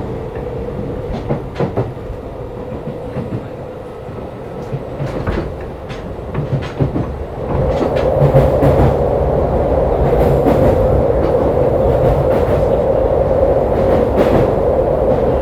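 Keisei 3500 series electric train heard from inside a motor car while running, with wheels clicking over rail joints. The running noise grows clearly louder about halfway through and stays that way.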